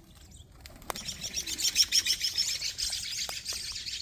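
Birds chirping in a fast, dense chatter of high notes that starts about a second in and keeps going, with a few sharp clicks mixed in.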